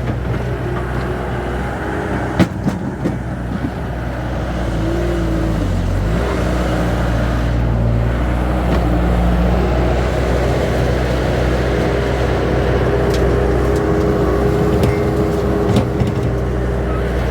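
Engine of an earth-moving machine loading a dump truck with dirt, running steadily with a brief dip in pitch about six seconds in. A few sharp clanks are heard over it.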